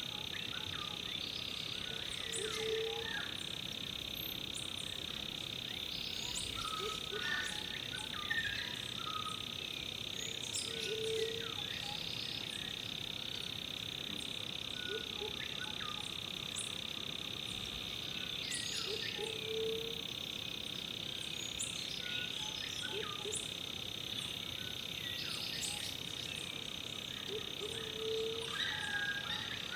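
Rainforest ambience: a steady high-pitched insect drone throughout, with short low frog-like calls every few seconds and scattered brief bird chirps.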